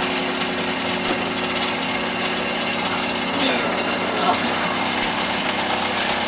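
Stepper motors of a CNC foam-cutting machine running steadily through a cut, a constant hum with a few steady tones; the ticking and vibration are typical of stepper motors and do not affect the cut.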